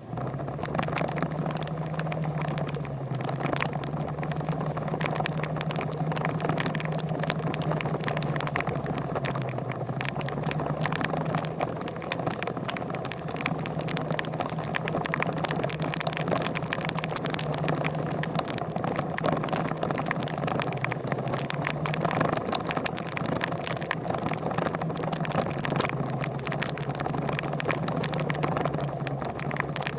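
Motorcycle engine running steadily at an even pitch, with a constant stream of small crackles and clicks over it.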